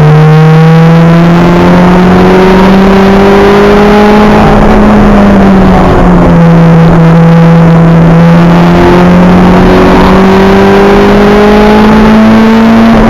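Acura Integra race car's engine at full throttle, heard from on board: the revs climb steadily, drop sharply on an upshift about six seconds in, then climb again through the next gear and start to fall right at the end.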